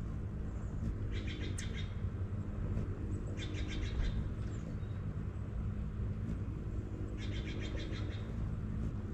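A small bird's short, fast rattling trill, three times: about a second in, about three and a half seconds in and near the end. Under it runs a steady low hum.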